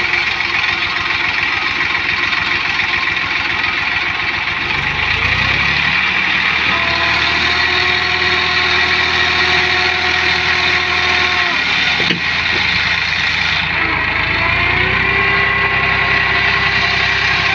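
Tractor diesel engine running, revved up and held high twice with a brief drop in between, straining to pull a sand-loaded trolley stuck in sand.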